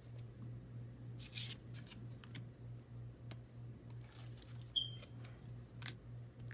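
Light taps, clicks and short rustles of hands handling tarot cards and their packaging, with one brief sharp squeak a little before the end. Underneath is a steady low hum that pulses a few times a second.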